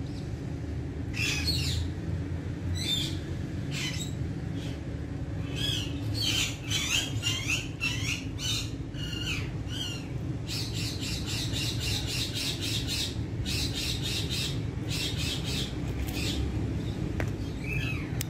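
Indian ringneck parakeet squawking: a string of short, harsh calls, with a fast run of repeated calls from about ten to thirteen seconds in, over a steady low hum.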